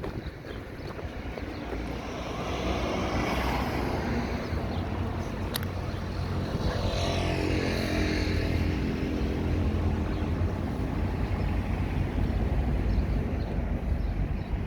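Road traffic on a city avenue: vehicles pass close by one after another over a steady low engine rumble. The engine note of one passing vehicle falls in pitch as it goes by, about halfway through.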